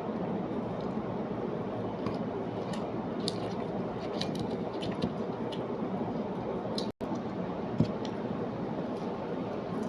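A person chewing food, with small clicking mouth sounds scattered over a steady background noise; the sound drops out for an instant about seven seconds in, and a short sharp click follows soon after.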